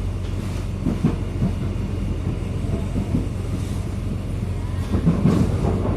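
Airport rail link train running along the track: a steady low rumble of the ride, with a few short clicks and knocks about a second in and again near the end.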